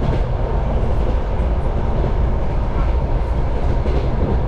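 Passenger railway car running along the track: a steady, loud rumble of wheels on rails with a few faint clicks.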